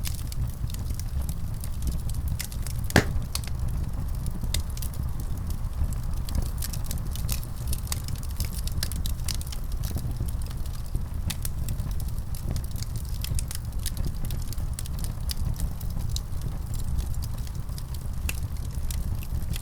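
Wood fire burning in a fireplace: a steady low rumble of flames under frequent small crackles, with one louder pop about three seconds in.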